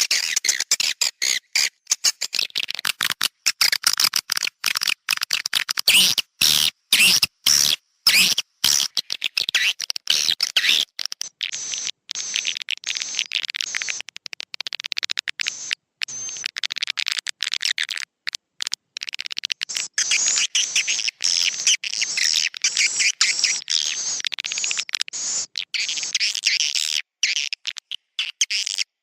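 Swiftlet roosting-call lure recording: a dense, high twittering of many swiftlet chirps, chopped by frequent brief gaps, the kind of call played in swiftlet houses to draw the birds in to roost and nest.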